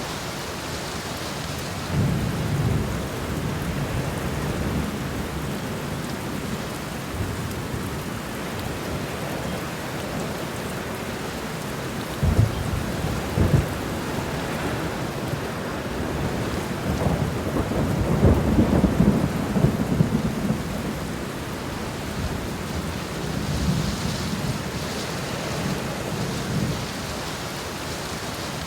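Steady rain with low rumbling swells underneath, and two sharp low thumps about midway.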